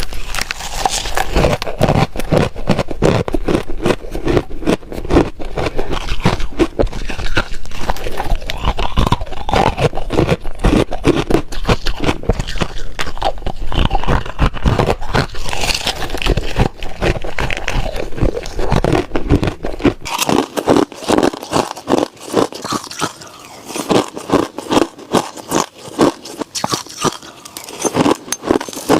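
Close-up crunching and chewing of freezer frost or powdery soft ice: a dense run of crisp crunches and scrapes with a low hum underneath. About two-thirds of the way in the hum stops and the crunches come more spaced and evenly paced, like steady chewing.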